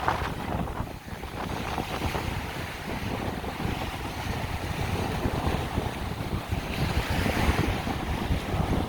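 Strong wind buffeting the microphone in gusts, with surf breaking on the beach underneath.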